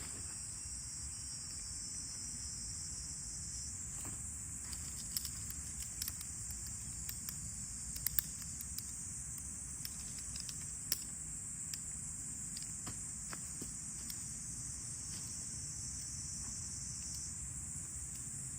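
Steady high-pitched chorus of summer insects, with a thinner trilling insect call over it in the first few seconds and again near the end. Scattered sharp clicks and taps come in the middle.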